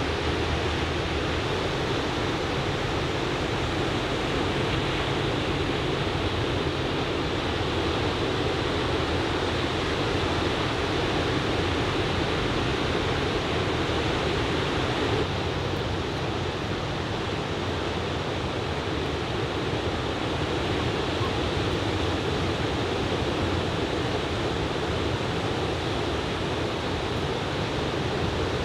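Typhoon-swell surf breaking on a sandy beach, a steady unbroken wash of noise.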